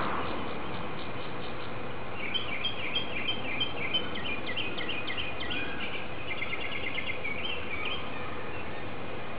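A small bird chirping in quick runs of short high notes, starting about two seconds in and stopping shortly before the end, over a steady outdoor hiss.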